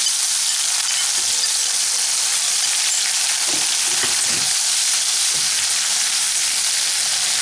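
Grated tomato and ginger sizzling in hot mustard oil in a kadai, a steady frying hiss, with a slotted spatula stirring through it from about halfway.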